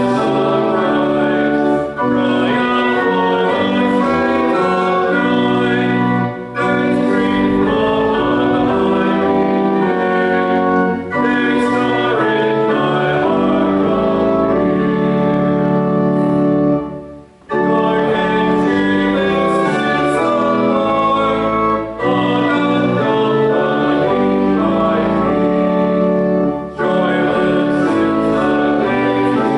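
Church organ playing sustained chords in phrases, with a brief pause between phrases every four to five seconds and a longer break about halfway through.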